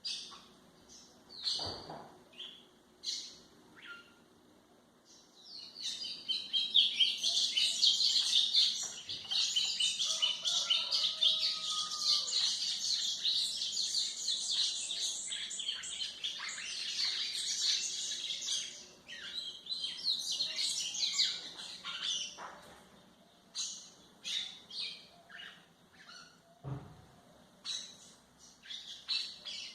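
White-throated seedeater (golinha) singing: scattered short high chirps, then a long run of fast twittering song lasting about sixteen seconds, then short chirps again near the end.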